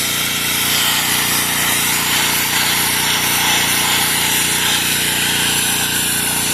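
Pressure washer running steadily: its motor drone under the hiss of the water jet spraying onto the tractor.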